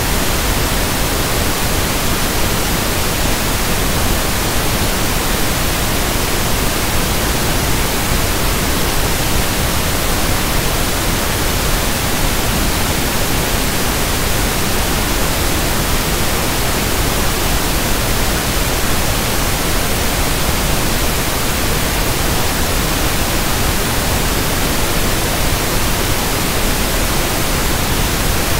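Steady synthetic pink noise: an even, unchanging hiss that spreads from deep low rumble to high treble, with no tones or events.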